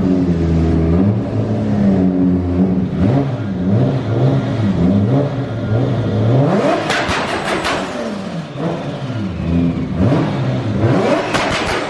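Turbocharged stroker 2JZ engine of a 950 hp Toyota Supra pro drift car being revved: quick blips of the throttle, then two hard revs about seven and eleven seconds in, each crackling sharply at its peak before falling back.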